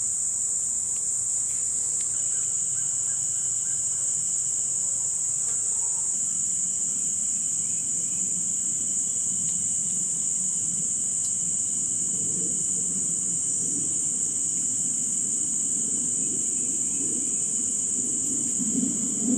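Steady, high-pitched chorus of insects calling in an evening field. A low rumbling noise grows underneath in the second half and swells near the end.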